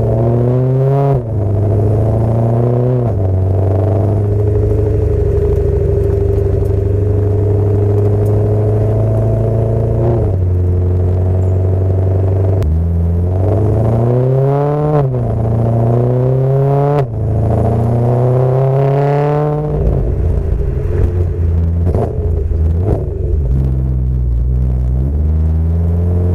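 Supercharged BMW M3 V8 on its Agency Power exhaust with a Macht Schnell X-pipe, idling and revved up and back down several times. The highest rev comes just before the end of the middle third and is followed by a few seconds of crackling pops as it drops back to idle.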